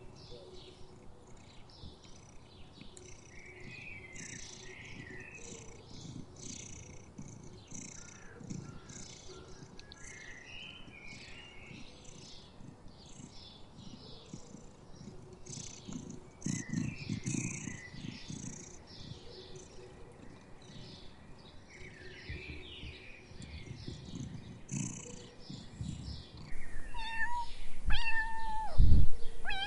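A domestic cat purring softly. Near the end a cat meows loudly a few times, each call bending in pitch.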